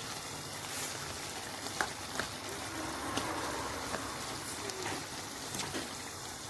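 Chicken mince with tomatoes and spices frying in a pan: a steady sizzle with a few sharp clicks and pops scattered through it.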